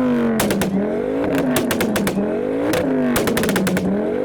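Mark II Ford Focus ST's turbocharged five-cylinder engine being revved hard on the limiter in repeated blips, the pitch climbing and falling three or four times, with crackling pops from the exhaust each time the revs drop.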